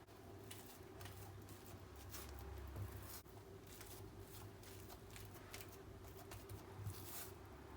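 Quiet handling sounds: a string of soft, irregular rustles and light taps, over a steady low hum.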